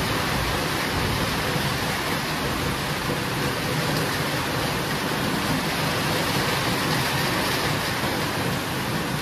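Heavy rain falling steadily, an even rushing hiss with no breaks or separate drops standing out.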